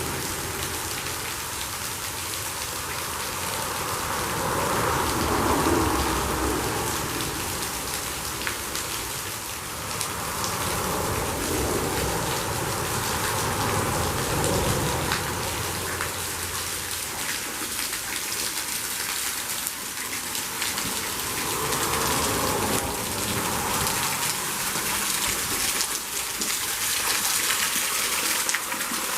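A waterfall rushing and splashing: a steady wash of falling water with a fine crackle of spray, swelling and easing a little every few seconds.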